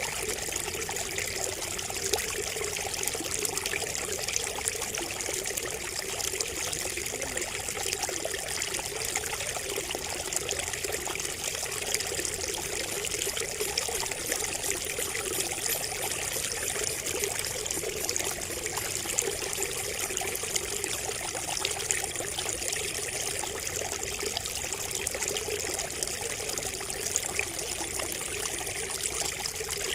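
Water trickling and pouring steadily from a bamboo spout, with a continuous splashing patter.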